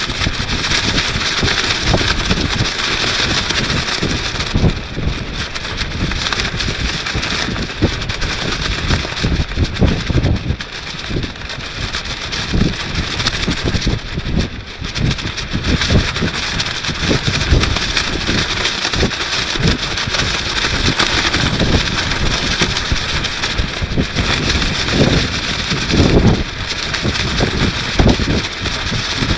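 Strong gusting wind buffeting the microphone, with a plastic rainsuit rustling and flapping in the gusts. The low rumble swells and falls irregularly under a steady hiss.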